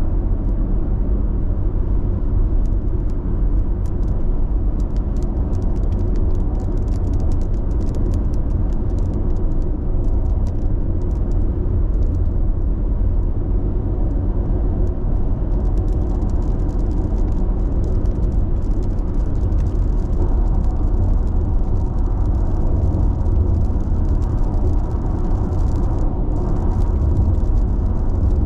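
Steady road noise inside a car's cabin cruising at constant expressway speed: an even low rumble of tyres and engine, with faint light ticks and rattles above it.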